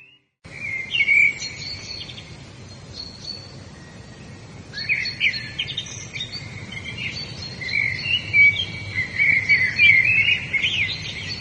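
Songbirds singing and chirping, many short trills and calls overlapping, over a steady outdoor hiss. The song starts after a brief moment of silence at the very start and grows busier about halfway through.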